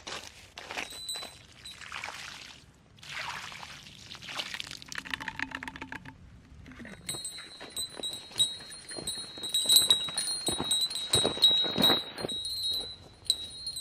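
Light metallic chiming, with many quick strikes over a sustained high ringing tone, begins about halfway through. It follows a stretch of rustling.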